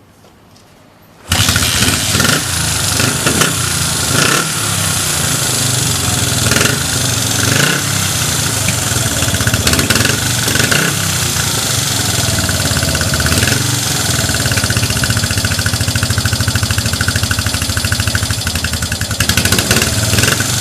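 Honda CB250T's air-cooled 250 cc parallel-twin engine catching on the kick starter about a second in, then running loudly through its exhaust, with a few brief rises in revs before settling to a steady run.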